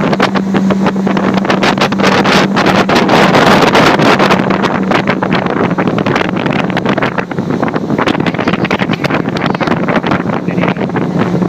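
Boat's motor running at a steady pitch while the boat is under way, with heavy wind buffeting on the microphone.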